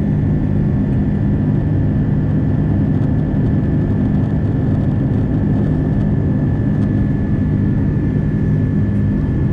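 Airbus A330-300 jet engines running steadily at low power: a constant low hum with a thin, steady whine above it.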